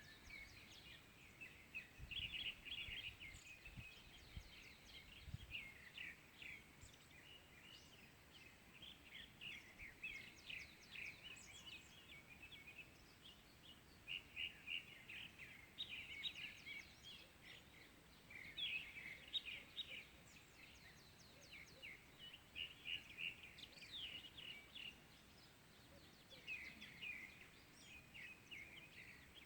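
Faint morning chorus of small birds: dense runs of short, high chirps and twitters, overlapping with almost no pause.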